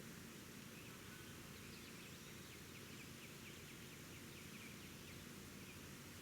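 Faint bird chirping over steady outdoor background hiss: a run of short, high chirps, about four a second, starting about a second and a half in and stopping about a second before the end.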